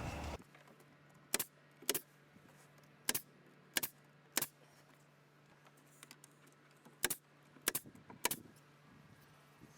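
About eight sharp knocks, each a quick double hit, coming irregularly over a faint steady hum.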